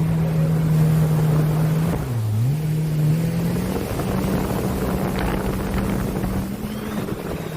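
Jet ski engine running at a steady pitch. It eases off and dips briefly about two seconds in, then picks up again and holds a slightly higher pitch, over a hiss of water and wind.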